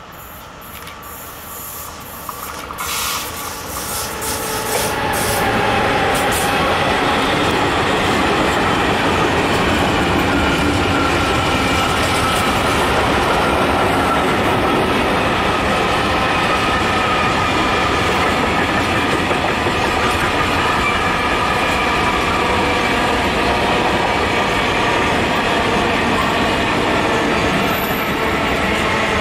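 A freight train of covered hopper wagons approaches and passes close by. The sound grows over the first few seconds into a steady loud rumble of wagons rolling past, with wheel-on-rail clatter and a steady ringing whine from the wheels.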